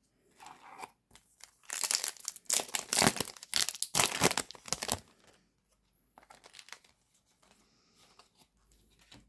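Trading-card booster pack wrapper being torn open and crinkled: a loud burst of crackling and tearing lasting about three seconds, starting a couple of seconds in, then faint rustling as the pack is handled.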